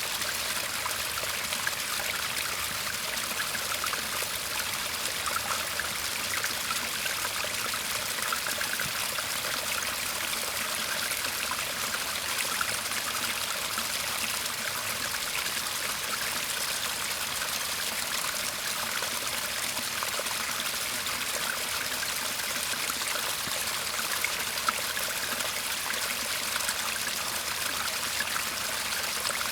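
Shallow garden stream babbling and trickling over stones in a steady, even flow.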